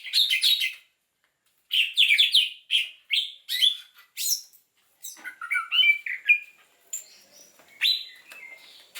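Small songbird chirping and twittering: quick high calls in clusters, with short pauses between them.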